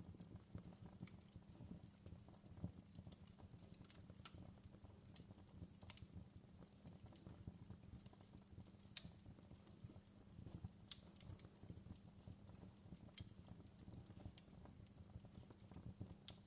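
Faint fireplace crackle: irregular small pops and snaps over a low, steady rumble of the fire.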